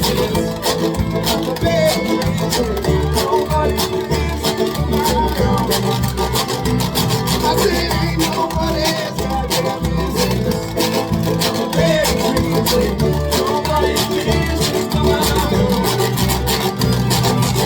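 Live folk band playing an instrumental passage: fast-strummed acoustic string instruments over a steady, driving beat.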